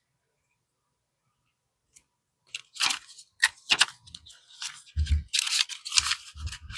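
Paper banknotes and plastic cash envelopes being handled: crisp rustling and crinkling starting about two and a half seconds in, with a few soft thumps near the end.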